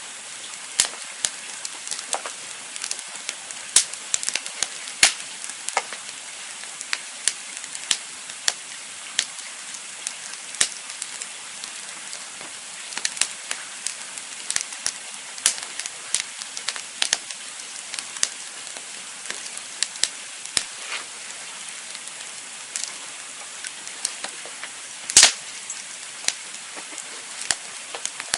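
Campfire crackling: a steady hiss with frequent sharp, irregular pops, one louder pop near the end.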